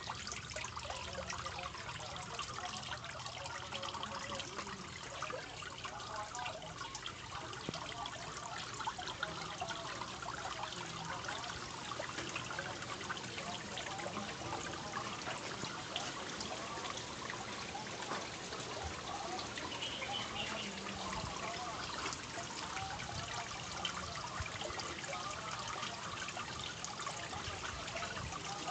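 Water steadily trickling and splashing from a homemade fountain attachment into a fish tank.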